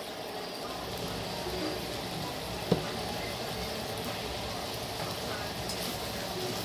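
Chicken pieces sizzling steadily in hot oil in a wok. A single sharp click comes about two and a half seconds in, and a spatula starts stirring the pieces near the end.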